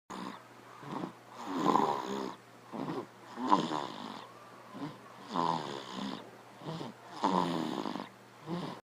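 Snoring: four loud snores about two seconds apart, with softer breaths between them.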